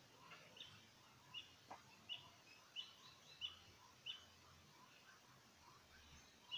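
Faint bird chirping: a short, high note repeated about every two-thirds of a second, six or seven times, stopping about four seconds in. One soft click about a second and a half in.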